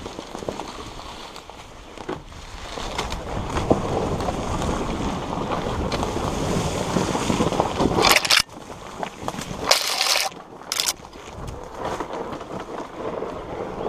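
Dirt bike running along a trail, with wind rushing over the microphone and a few loud gusts of rushing noise about two-thirds of the way through.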